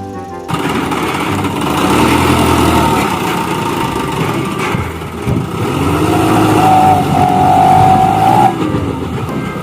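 Motor vehicle engines running, with the pitch wavering up and down; a steady higher tone is held from about six to eight and a half seconds in.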